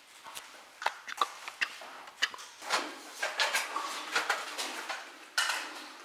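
Irregular light clicks and knocks, about a dozen, with a few short rustling swells between them.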